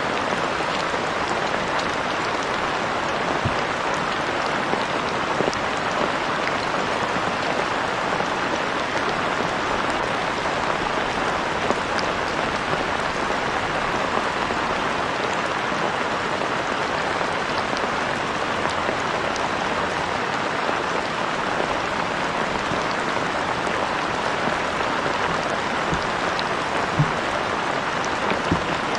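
Steady heavy rain falling, with scattered drops pattering, and a single small knock about 27 seconds in.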